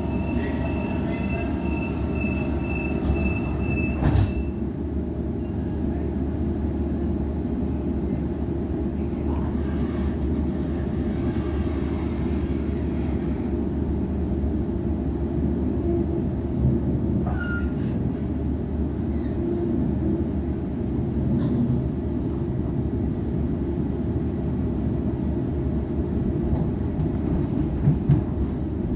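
Inside a Waratah A-set electric train as it pulls away and gets under way: a steady low rumble of wheels and running gear. A rapid beeping sounds for about the first four seconds and stops with a sharp thump.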